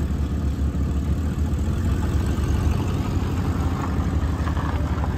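Old Chevrolet station wagon's engine running steadily at low revs, a continuous low rumble.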